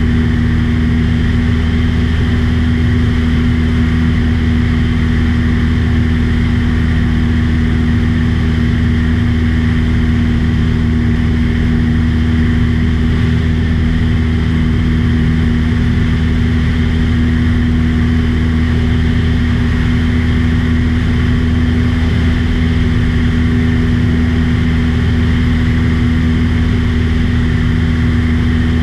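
Small plane's piston engine and propeller running steadily, a loud, unchanging drone.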